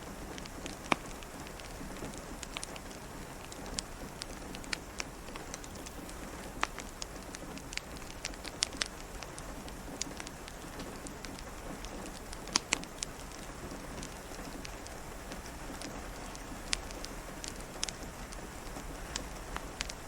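Steady rain mixed with a crackling fireplace, with sharp pops and crackles scattered irregularly through it.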